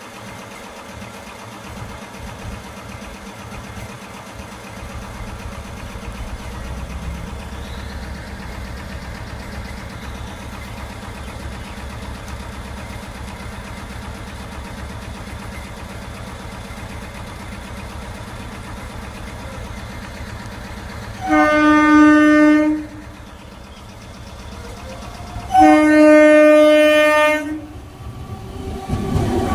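Electric multiple unit (EMU) local train approaching with a steady low rumble, then sounding its air horn twice: a single-note blast of about a second and a half, then one of about two seconds. The rumble grows louder near the end as the train reaches the camera.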